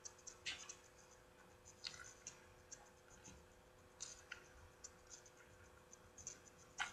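Faint mouth sounds of someone eating a soft cinnamon roll: scattered small wet clicks and lip smacks from chewing, with one sharper smack near the end. A faint steady hum sits underneath.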